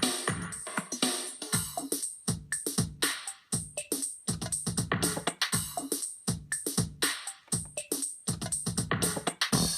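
Roland R8 drum machine playing a quick, irregular run of drum hits, some with short pitched tones.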